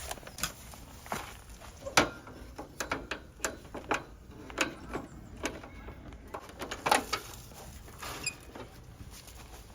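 Irregular light knocks and clicks, a few a second, with a sharper knock about two seconds in and another near seven seconds.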